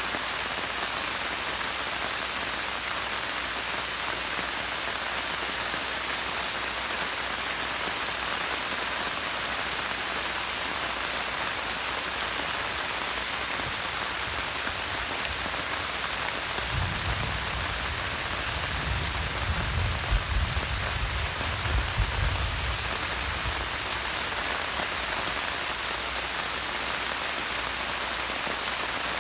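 Steady rain pattering down as an even hiss. About two-thirds of the way in, a low rumble rises under it for several seconds, then fades.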